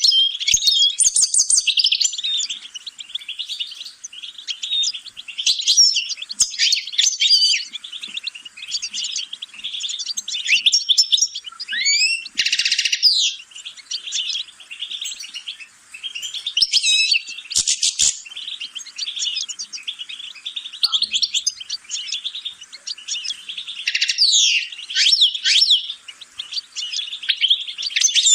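European goldfinch singing a long, rapid, twittering song of varied chirps and trills, with a few short pauses.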